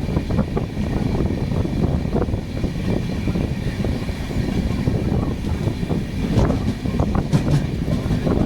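A train running along the track: a steady low rumble with irregular clicks and knocks from the wheels over the rails.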